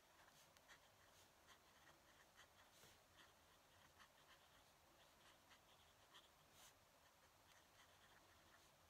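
Faint scratching of a fountain pen nib on paper, in short irregular strokes.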